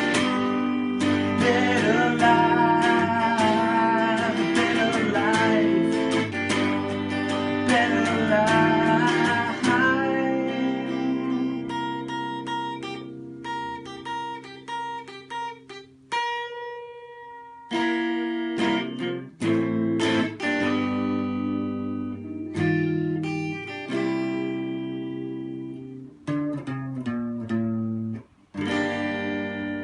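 Acoustic guitar music: steady strummed chords for about ten seconds, then sparser picked notes and chords that grow quieter, with a brief stop about sixteen seconds in.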